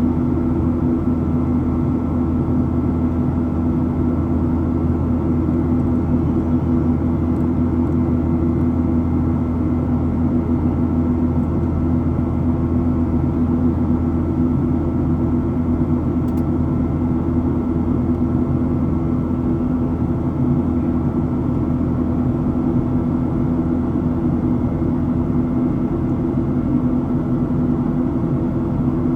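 Steady drone of a Boeing 737-700's CFM56 jet engines and airflow, heard inside the passenger cabin: a deep even rumble with a few steady hum tones over it, not changing.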